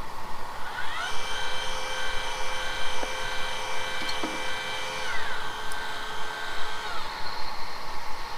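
Motorised GoTo telescope mount slewing: its stepper motors whine, gliding up in pitch as they speed up about a second in, holding a steady pitch, then winding down and stopping, one motor around five seconds in and the other near seven.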